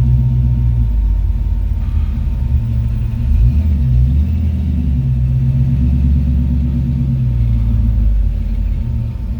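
A car engine running low and steady as the car creeps forward, its pitch dipping and rising briefly about three seconds in.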